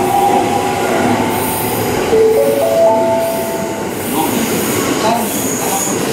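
JR West 683 series Thunderbird limited express pulling out and rolling past along the platform: a steady rumble of the cars with a whine of several tones that climbs in steps a couple of seconds in.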